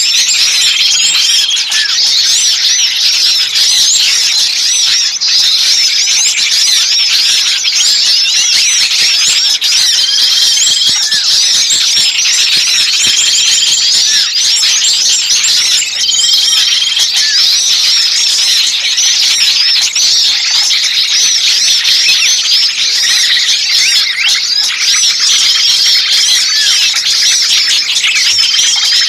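Bird-lure recording of many small songbirds calling at once: a dense, unbroken mass of fast chirps and twitters, with a short, level whistled note recurring every few seconds.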